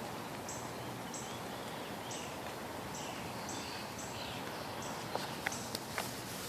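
Steady outdoor hiss at a pond, with a small animal's short, very high, thin call repeating about once or twice a second and a few faint chirps. A few sharp clicks come about five to six seconds in.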